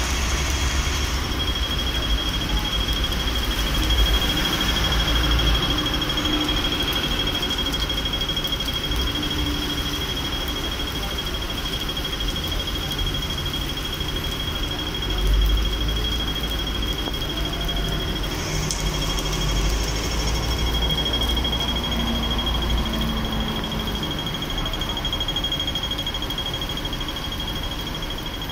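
Rain falling on a city street, with the hiss of traffic on the wet road and a low rumble of passing cars and buses that swells about halfway through. A pedestrian crossing's audible signal sounds steadily as a thin high tone throughout.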